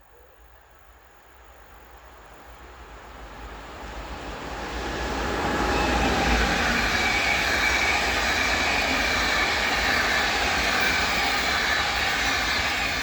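A train approaching and passing close by on a mainline track. The rush of wheels on rails builds over about five seconds, then holds loud with high whining tones, and eases off near the end.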